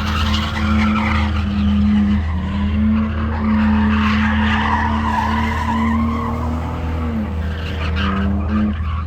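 Pickup truck doing a burnout: the engine is held at high revs at a nearly steady pitch while the rear tyres spin and squeal against the pavement. About seven seconds in the revs drop, rise briefly, then cut off near the end.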